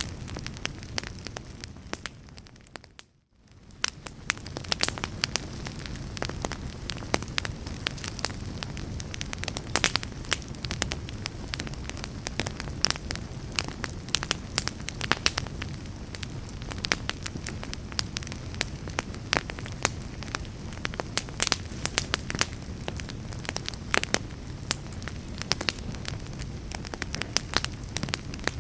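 Wood fire in a fireplace crackling, with frequent sharp pops and snaps over a steady low rumble of burning logs. About three seconds in the sound fades almost to nothing and comes straight back.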